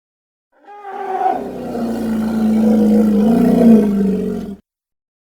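Elephant giving one long, low roar of about four seconds, starting with a rougher, higher onset and rising a little in pitch and loudness near its end before it cuts off suddenly.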